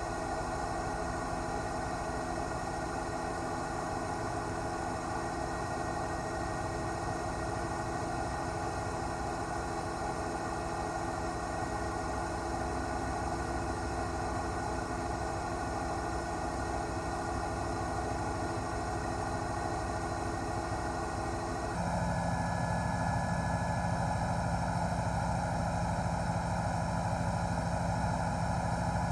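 News helicopter's engine and rotor running, a steady drone of many layered tones. About three quarters of the way through, the mix of tones changes abruptly and it gets slightly louder.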